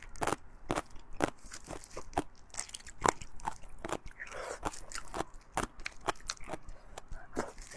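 Close-miked chewing of fatty beef and bone marrow: irregular wet smacks and crunches of the mouth, several a second.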